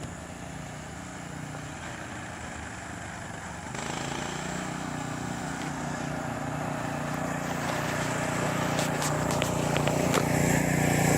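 Coleman CT200U mini bike's small single-cylinder four-stroke engine running steadily as the bike approaches. It gets louder about four seconds in and keeps building toward the end.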